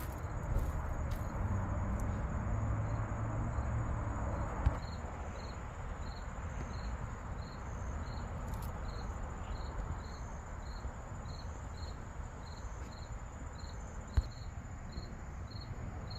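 An insect, most likely a cricket, chirping steadily at about two chirps a second, over low wind rumble on the microphone. Two brief clicks come about a third of the way in and again near the end.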